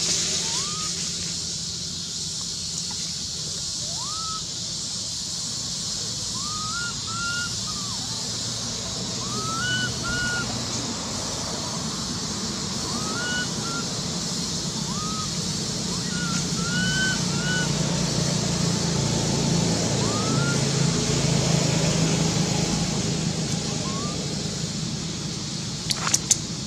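A young monkey giving short, thin, rising squeaks, one at a time or in quick pairs, at irregular intervals, as distress cries. A steady high insect hiss runs underneath, and a few sharp clicks come near the end.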